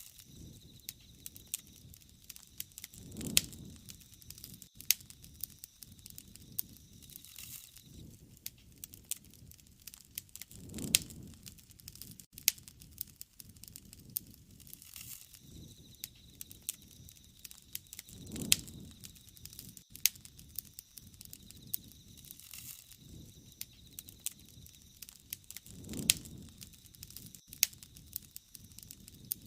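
Bonfire crackling, with frequent sharp pops and snaps and a low swell of burning about every seven and a half seconds.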